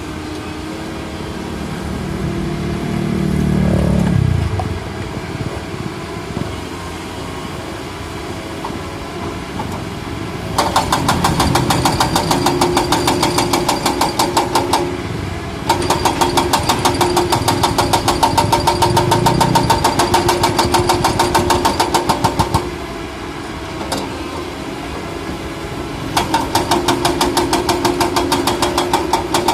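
Excavator's diesel engine running steadily, with a swell in engine sound a few seconds in and three long stretches of rapid, even clattering over it.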